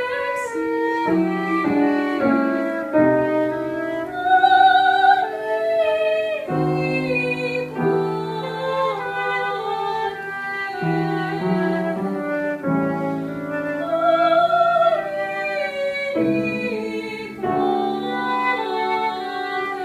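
Classical solo singing in a high voice with vibrato, accompanied by piano.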